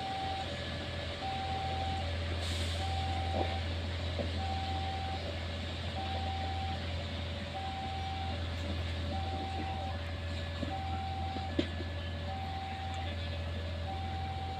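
Two-tone warning alarm beeping in a steady high-low alternation, about one high-low pair a second, over the steady drone of a running engine. A few faint clicks are heard, one about twelve seconds in.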